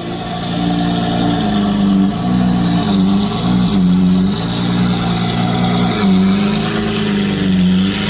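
Lamborghini supercar engine and exhaust running loud, its note stepping up and down in pitch several times as the revs change.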